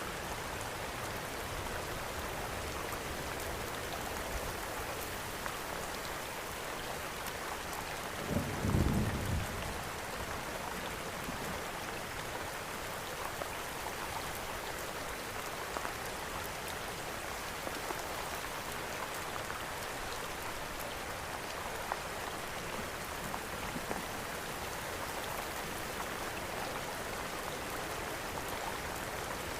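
Steady rain mixed with the faint crackle of a wood fire in a fireplace. A short low rumble comes about eight seconds in.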